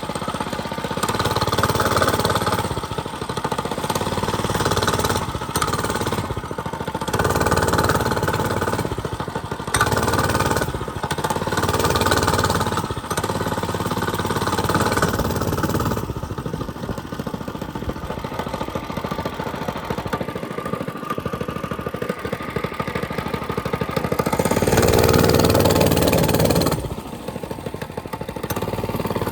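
Mini bike engine running while being ridden, its revs rising and falling repeatedly, loudest about 25 seconds in.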